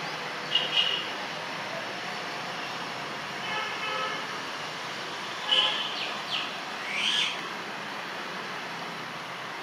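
Steady running noise of an approaching Vande Bharat Express electric trainset. Several short bird calls sound over it: once early, then twice more after the middle.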